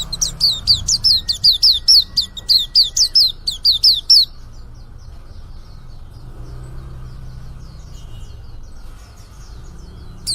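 A young male white-eye (pleci) singing a rapid twittering run of short, high, downward-slurred notes at about five a second. The run stops about four seconds in, leaving only faint chirps. It is a young bird that is just beginning to sing.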